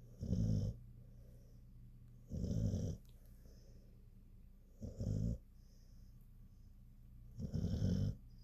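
A sleeping dog snoring: four snores about two and a half seconds apart, so much like a person's snoring that it could pass for one.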